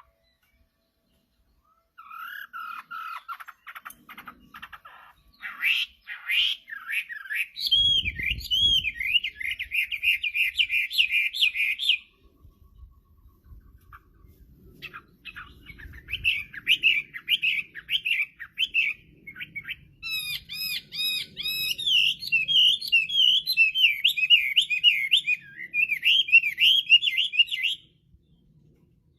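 Chinese hwamei singing full song: long runs of fast, repeated, rising-and-falling whistled notes. The song starts after a couple of seconds of silence and comes in two bouts, with a quieter lull around the middle.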